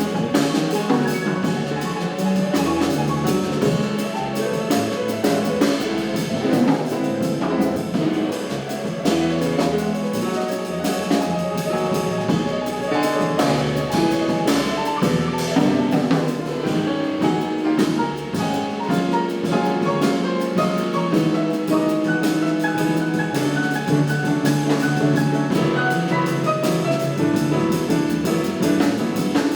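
Jazz quartet of saxophone, piano, double bass and drum kit playing live, with busy drumming and cymbals under dense runs of notes.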